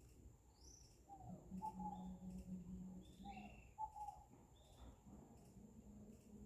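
Faint outdoor ambience: distant birds chirping and calling in short notes, over a faint low steady hum.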